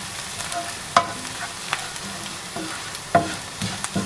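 Onion, ginger-garlic paste and chilli powder frying in oil and butter in a pan, with a steady sizzle. A spoon stirring the masala clinks against the pan about a second in and a few times after three seconds.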